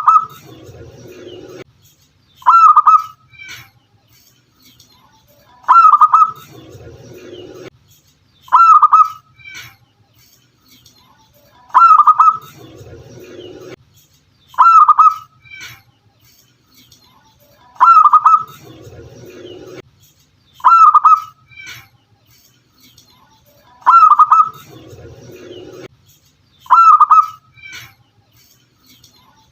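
Zebra dove (local perkutut) calling: a loud, short cooing phrase repeated about every three seconds. Every other gap holds a softer, lower cooing that lasts a second or two.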